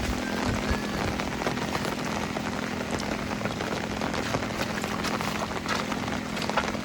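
Steady rain falling, an even hiss of drops with scattered sharper ticks of individual drops, and a faint steady low hum underneath.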